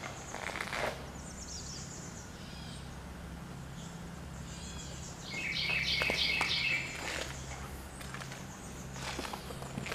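Birds chirping outside, with one loud, rapid trilling call about five seconds in, over a steady low hum.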